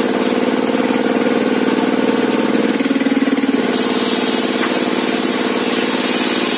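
The engine driving a homemade sawmill table saw, running steadily. About three seconds in, its note drops lower and a little louder for roughly a second, then comes back up.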